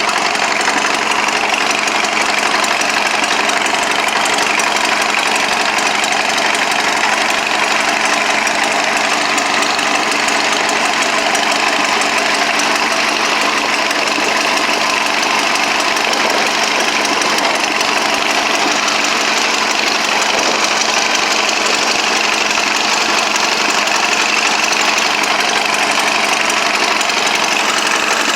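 Allis-Chalmers B tractor's four-cylinder engine running steadily at an even speed.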